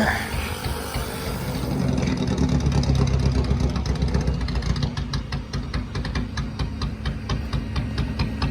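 Four-cylinder race car engine running rough with an uneven beat and sharp pops, louder from about two seconds in: it is skipping and backfiring, a sign that something is wrong with it.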